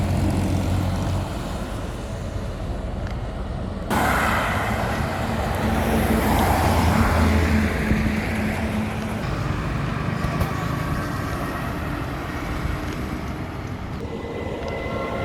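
Highway traffic: trucks and cars going by with a steady engine rumble and tyre noise. The sound changes abruptly about four seconds in, and near the end a few steady tones come in.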